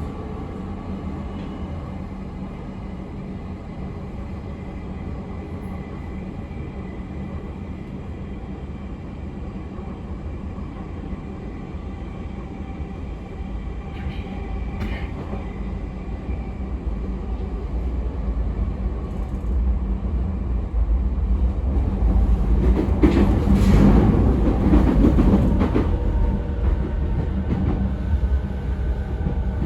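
E217-series electric multiple unit with Mitsubishi IGBT-VVVF traction drive, running on the line and heard from inside the car: a steady wheel-and-track rumble with a faint, even motor whine. It grows louder about two thirds through, with a noisier stretch for a few seconds.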